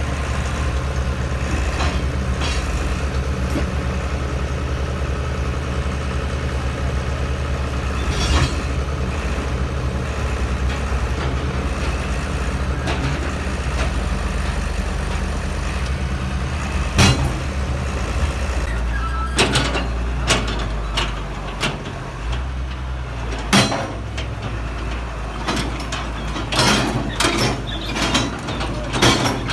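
Heavy diesel engine running steadily, with occasional sharp metallic clanks and knocks, which come more often in the last third.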